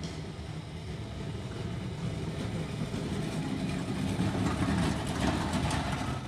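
Heavy machinery's engine running steadily while a scrapped car body is crushed, with crackling and crunching of metal that builds up and grows louder between about three and six seconds in, then cuts off.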